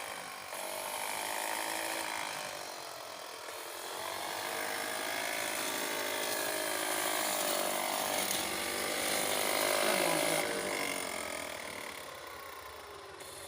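Small electric motor of a homemade solar-powered grass cutter running as it cuts, its whine sagging and recovering in pitch several times.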